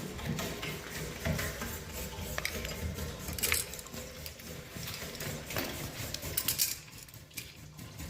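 Steam radiator banging and clanking: a run of irregular sharp metallic knocks and ticks, a few of them much louder than the rest.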